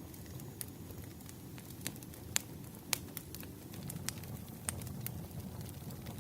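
Wood fire crackling: a steady low rush of burning logs with sharp pops scattered through it, the loudest about two and a half and three seconds in.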